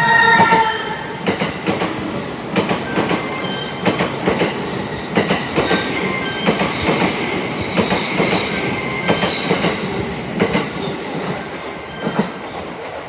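E261 series express train passing through the station, its wheels clattering over rail joints and points with some wheel squeal. The last notes of its music horn fade out in the first half-second.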